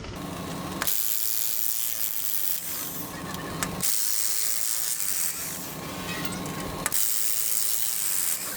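Hand tools working on steam turbine fittings and bolts: ratcheting and metal-on-metal mechanical noise. The sound changes abruptly about a second in, near four seconds and near seven seconds.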